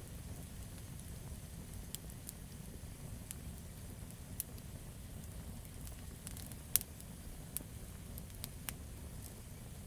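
Campfire of burning wood crackling: a steady low rumble of flame with scattered sharp pops and snaps, the loudest about two-thirds of the way through.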